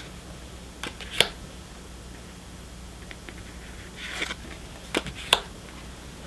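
Pokémon trading cards being handled one by one: sharp snaps of card on card, two about a second in and two around five seconds in, with a short rustle just before the second pair.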